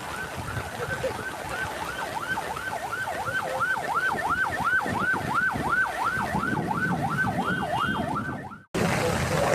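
Emergency vehicle siren yelping, its pitch sweeping up and down about three times a second, the sweeps growing deeper after the first couple of seconds, over a low rumbling noise. It cuts off abruptly near the end.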